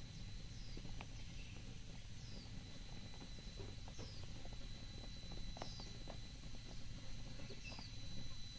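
A small bird repeating a short, high, falling call five times, about every one and a half to two seconds, over a low steady rumble and a few faint clicks.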